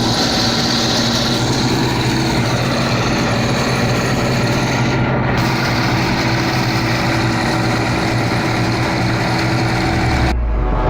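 Bizon Z056 combine harvester's six-cylinder diesel engine running steadily at constant speed.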